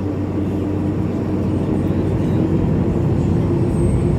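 Boeing 747-400's jet engines heard from inside the cabin on the take-off roll: a low rumble with a steady hum that edges up in pitch as the loudness slowly builds.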